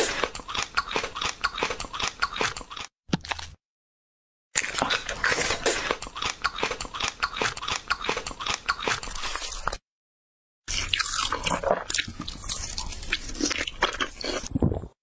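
Crunching and chewing eating sounds: dense runs of rapid, crisp crunches in three stretches, each stopping abruptly into silence, the first just before 3 seconds in and the second near 10 seconds in.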